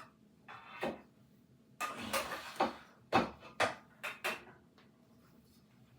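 Kitchenware being handled: pots and pans clattering, with a scraping stretch about two seconds in and a quick run of sharp knocks after it.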